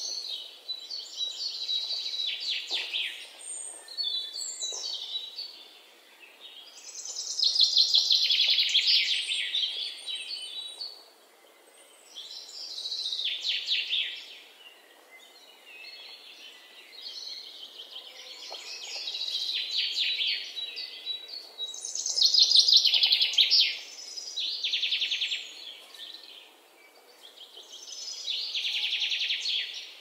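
Birdsong: bursts of high, rapid chirping and trilling warbles, each a few seconds long, separated by short quieter gaps.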